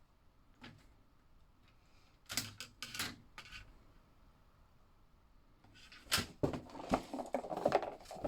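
Plastic slot car track pieces clicking and clattering as they are handled and fitted together. A few sharp clicks come about two seconds in, and a longer run of rattling and clicks near the end.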